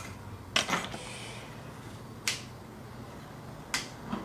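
A handful of short, sharp clicks and taps, five or six of them spaced irregularly, two close together about half a second in.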